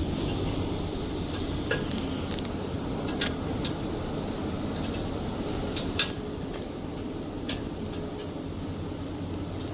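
Occasional sharp metallic clinks and clicks of a tool on the steel guard-strip fittings of a band saw cutting machine as they are tightened, the loudest about six seconds in, over a steady low hum.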